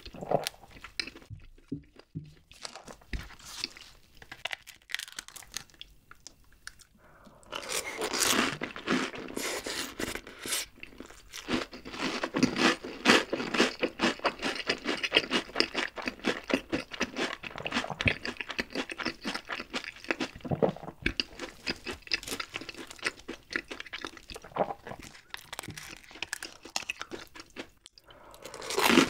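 Close-miked crunching and chewing of deep-fried menbosha (shrimp toast). Quiet for the first several seconds, then dense, rapid crunching begins about seven seconds in and runs on to near the end.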